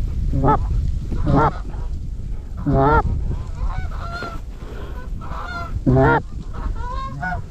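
Goose honking: loud, close honks every second or two, with fainter, higher honks in between, as geese come in to the hunters' calling. A steady low wind rumble on the microphone runs underneath.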